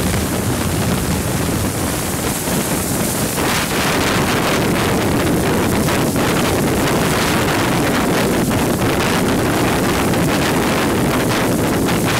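Steady loud rushing and rumbling of a steam-hauled passenger train running, heard from on board, with wind buffeting the microphone.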